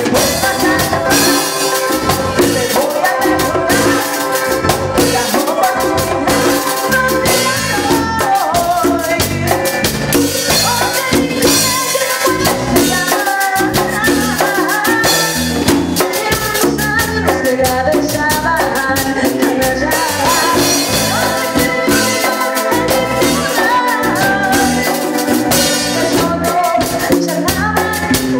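Grupero band music with a steady drum-kit beat and melodic instrumental lines.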